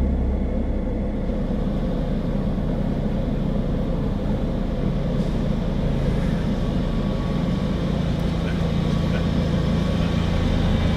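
Steady low hum of a running vehicle engine, with no music or speech over it; it grows a little louder near the end.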